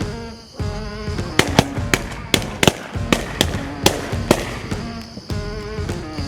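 A rapid volley of shotgun shots, about eight sharp blasts in three seconds at irregular spacing, from several hunters firing together, over background music.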